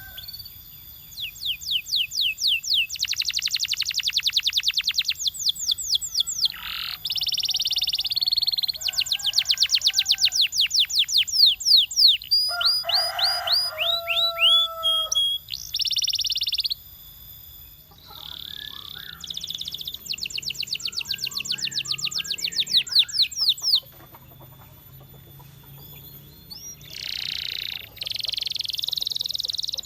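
Canary singing: long fast trills of quickly repeated sweeping notes, broken by short pauses, with a few harsher buzzy phrases and some lower held notes in between.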